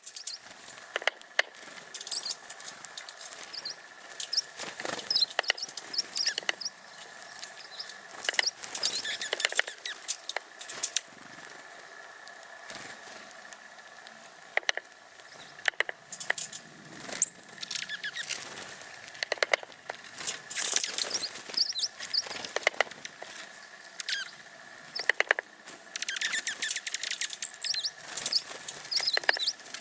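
A flock of small songbirds, American tree sparrows and dark-eyed juncos, giving many short, high chirps and twittering calls in quick bursts. Sharp clicks are scattered among the calls.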